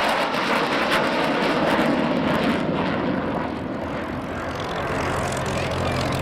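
Avro Vulcan's four Rolls-Royce Olympus turbojets roaring steadily as the bomber flies its display, easing slightly about halfway through. A steady low hum joins near the end.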